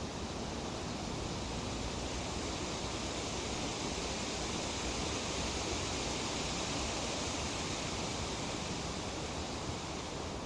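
Breeze rustling through tree leaves: a steady, even hiss that swells slightly in the middle.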